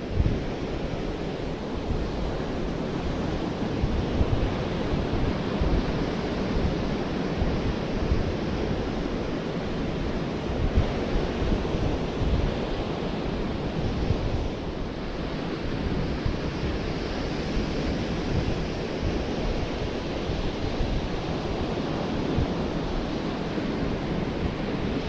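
Sea surf washing steadily onto a beach, with wind gusting against the microphone as a low, uneven rumble.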